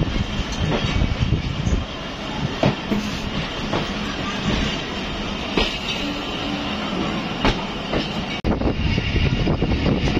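Passenger train coaches rolling along the track, heard from the open doorway of the rear brake van: a steady rumble with irregular sharp clacks of the wheels over the rail joints.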